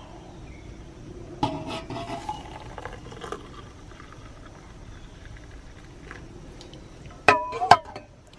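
Hot water poured into a cup of instant coffee and sugar, with a short, slightly rising pour tone, then two or three sharp clinks of utensil against cup near the end.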